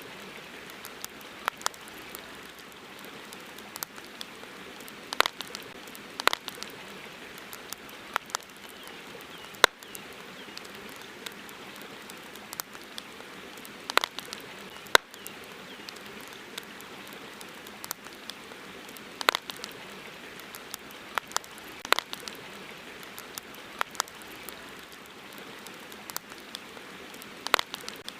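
Campfire crackling: irregular sharp pops and snaps, some loud, over a steady soft hiss.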